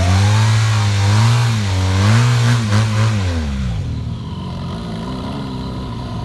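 Motorcycle engine, just started, being revved: the engine note rises and falls a few times, then drops back to a steady idle about three and a half seconds in.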